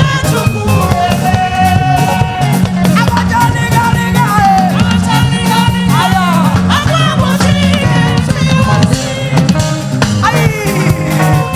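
Live gospel praise music: a band with a steady bass line and drums, and a voice singing over it with sliding, ornamented notes.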